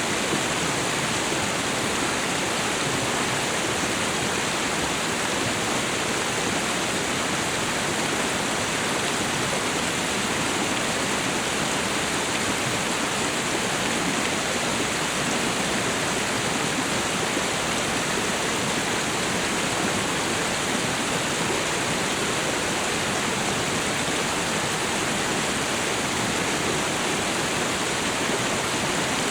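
Waterfall and river water rushing, a steady, even wash of sound.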